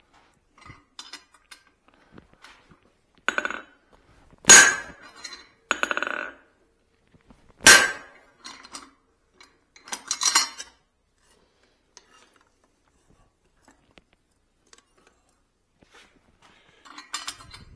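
Steel blacksmithing tools clanking and striking: a handful of scattered clinks and ringing steel-on-steel hits, not a steady hammering rhythm, with two louder ringing strikes about four and a half and eight seconds in.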